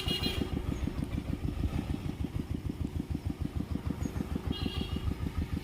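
A small engine running steadily at idle with an even, rapid low thudding. A short high buzzing sound comes in about four and a half seconds in.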